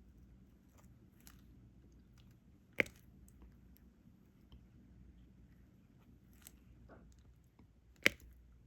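Faint ticks and soft clicks of resin diamond-painting drills being picked up with a drill pen and pressed onto the adhesive canvas, with two sharper clicks, one about three seconds in and one near the end.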